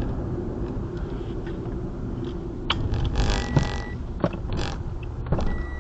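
Inside a car with the engine running low: scattered clicks and rustling handling noises, with a short high electronic beep from the car about midway and another near the end.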